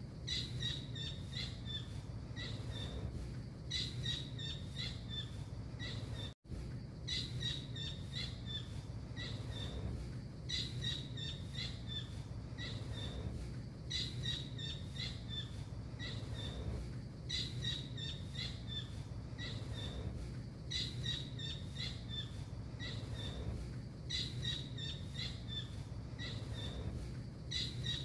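Blue kingfisher ('tengkek biru') calling: clusters of high, sharp notes repeated about every three seconds, over a steady low hum. The sound cuts out for an instant about six seconds in.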